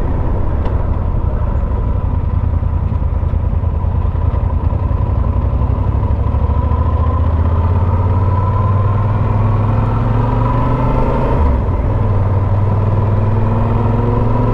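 Motorcycle engine running steadily while riding, heard from a helmet camera, its note shifting slightly and dipping briefly about eleven seconds in.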